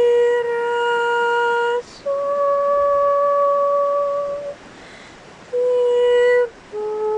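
A slow series of long, steady held notes at a few different pitches, about four in turn with short breaks between, as in meditative toning.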